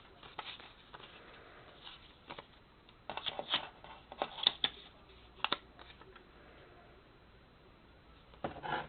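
Paper cutouts being handled and shuffled on a tabletop: a few short rustles and taps, most of them between about three and six seconds in.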